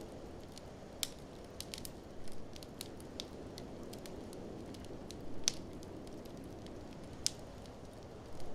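Wood fire crackling in a fireplace, with scattered sharp pops, three of them louder than the rest, over a steady low wind noise from a blizzard.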